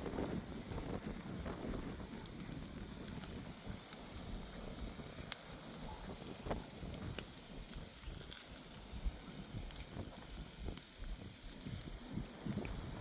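Open wood fire crackling, with scattered sharp pops.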